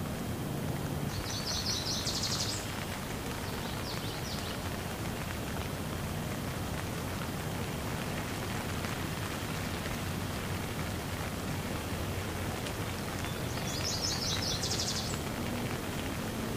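Steady rain falling. A bird calls with a quick series of high repeated notes about a second in and again near the end, with a shorter call about four seconds in.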